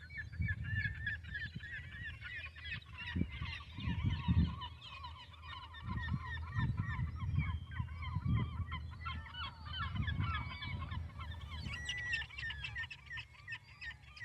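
A flock of birds calling, many short overlapping calls in a steady chatter, over a low rumble that rises and falls.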